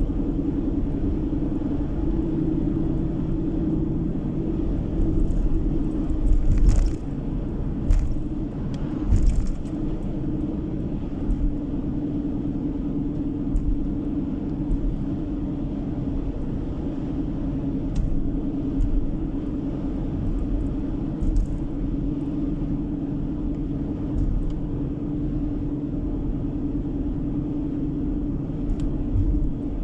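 A car driving, heard from inside the cabin: a steady drone of engine and road noise, with a few short knocks about 7 to 9 seconds in.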